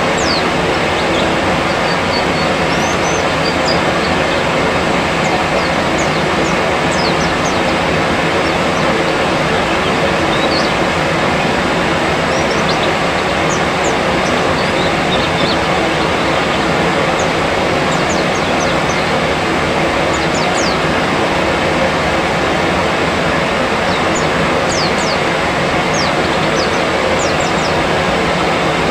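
A steady, loud rushing noise with many short, high chirps of oriental white-eyes scattered through it. This is a bird-therapy track meant to coax a young white-eye into singing.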